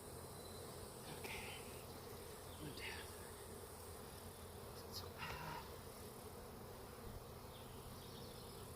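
Honeybee colony buzzing steadily, a close mass of bees humming, with a few brief higher noises over it about a second, three seconds and five seconds in.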